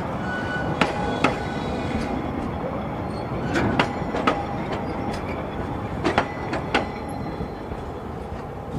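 Narrow-gauge (750 mm) train running along the track: a steady rumble broken by pairs of sharp knocks as the wheels pass rail joints, a pair about every two and a half seconds, with a faint wheel squeal.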